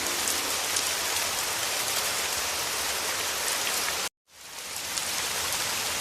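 Heavy rain falling steadily: an even hiss with individual drops pattering. About four seconds in the sound cuts out abruptly for a split second, then fades back up.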